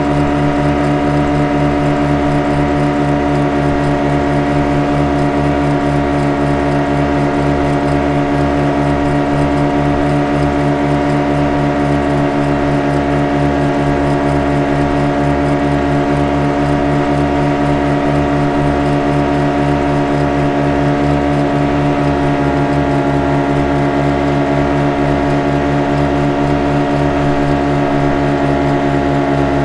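Motorboat engine running at a steady speed: an unchanging drone with a fast, even low throb.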